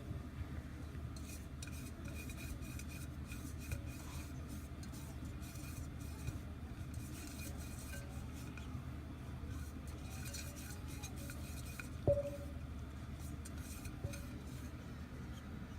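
Steady low background rumble with faint scattered clinks, and one sharper knock with a brief ringing tone about twelve seconds in, like a hard dish or pot being bumped.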